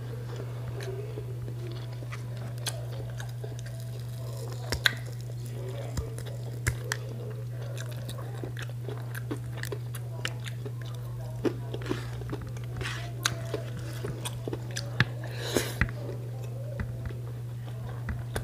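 Close-miked mouth sounds of a person eating rice and fried food by hand: chewing and biting, with many short sharp clicks and smacks scattered through, over a steady low hum.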